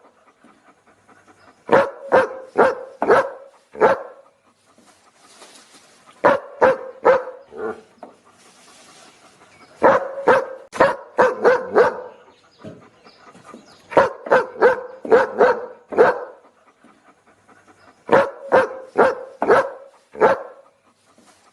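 A dog barking in quick volleys of five or six sharp barks, five volleys with pauses of about two seconds between them. A faint breathy hiss sounds in some of the pauses.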